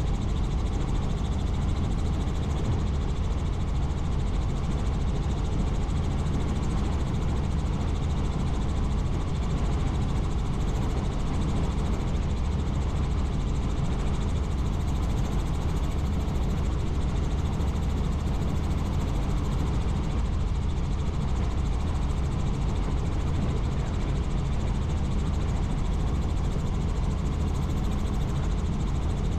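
Helicopter's engine and rotor running steadily in flight: a constant low drone under a rushing hiss.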